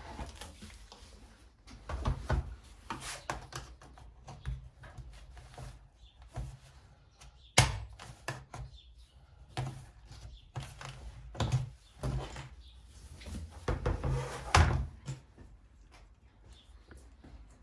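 Scattered knocks and clicks of hand work on a whiteboard being fitted, with one sharp knock about seven and a half seconds in and a run of louder knocks near the end.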